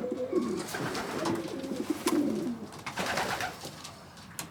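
Several racing pigeons cooing over one another, with short rustling bursts about a second in and again around three seconds in.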